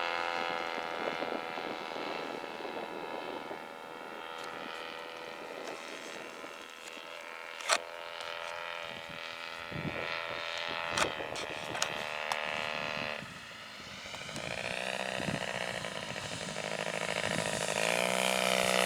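Small radial engine of a Pietenpol aircraft running with a steady note, broken by a few sharp clicks. About 13 seconds in the sound dips, then the engine note rises and grows steadily louder toward the end, as on a takeoff.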